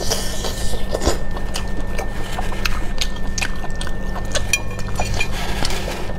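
Close-up chewing and biting of octopus tentacles: wet mouth clicks and smacks, several a second, over a steady low hum.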